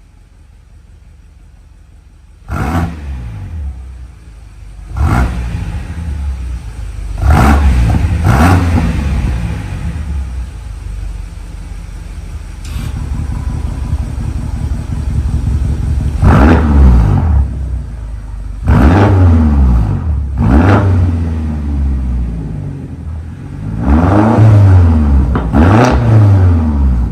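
BMW X6M's twin-turbo V8 through an aftermarket valved full exhaust, revving hard again and again, with a quiet low run for the first two seconds before the surges begin.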